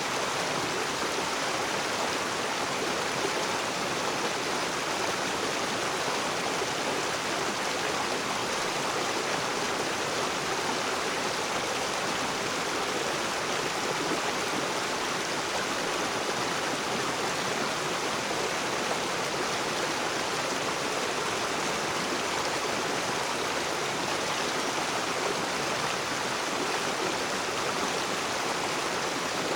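Rocky tropical river rushing steadily over stones, an even splashing and gurgling of water with no breaks.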